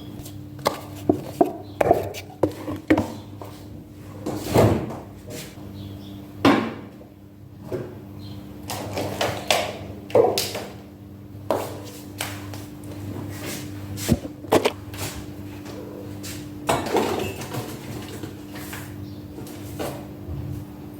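Household knocks and clatter, like cupboards, drawers or doors opening and closing, a cluster of sharp ones in the first few seconds and scattered ones after, over a steady low electrical hum.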